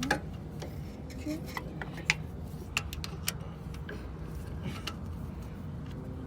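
Light, irregular clicks and clinks, as of small metal items handled, over a low steady hum.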